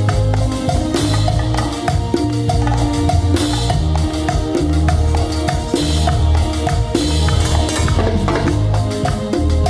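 A Latin band playing a salsa groove, led by timbales and drums with dense rhythmic strikes over a pulsing bass line.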